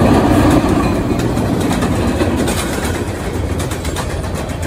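Freight train rolling past on the rails: a steady rumble with rapid wheel clatter and clicks.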